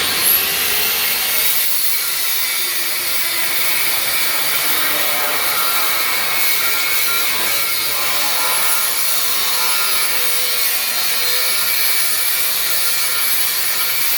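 Power tool cutting through a tow truck's rusty steel frame: a loud, steady, high-pitched cutting noise that starts suddenly and keeps on without a break.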